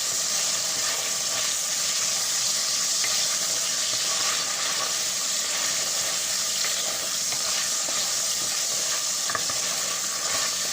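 Chicken pieces sizzling steadily as they fry lightly in oil in a pan on medium-high heat.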